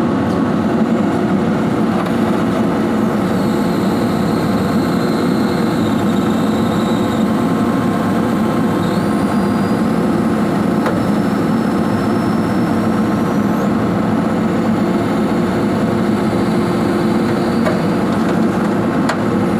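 Hydraulic excavator running with a steady, loud mechanical drone and a constant hum, while its swing device is checked for an abnormal noise. Faint high whines step up in pitch a couple of times partway through.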